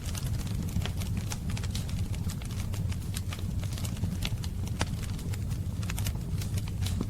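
Wood fire crackling: a steady low rumble of flames with frequent irregular sharp pops and snaps.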